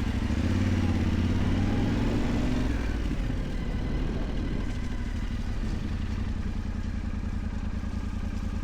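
Yamaha Ténéré 700's 689 cc parallel-twin engine running under the rider, louder with revs rising slightly for the first three seconds, then easing back to steady low-speed running.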